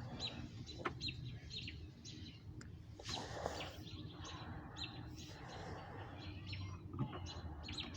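Wild birds chirping and calling, many short, scattered chirps from several birds, over a steady low background rumble.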